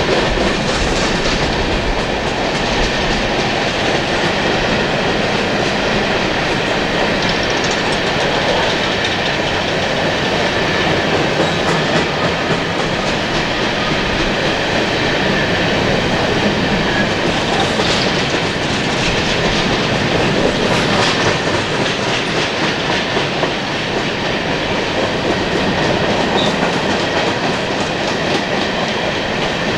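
Cars of a BNSF unit coal train rolling past, with steel wheels running on the rails in a steady, loud rumble.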